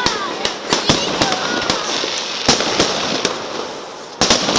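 Fireworks crackling: rapid sharp cracks and pops over a steady hiss. The sound eases off briefly, then a dense cluster of louder cracks comes near the end.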